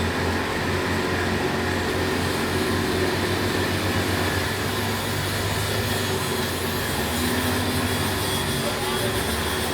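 Engine of a small passenger boat running steadily, a low even hum with water and hull noise over it.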